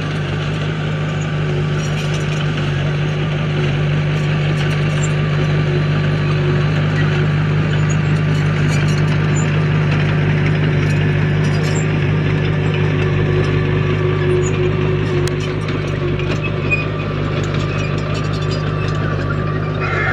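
Heavy construction machine's diesel engine running at a steady, unchanging pitch, with faint scattered ticks and rattles over it.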